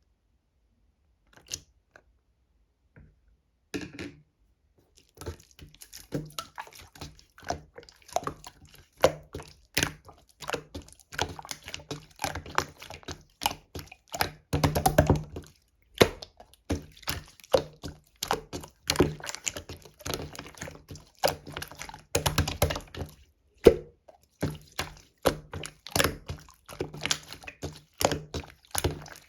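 Clear slime being pressed and stretched by hand, making irregular wet clicks and small pops several times a second. It starts a few seconds in and turns into bunched crackling twice along the way.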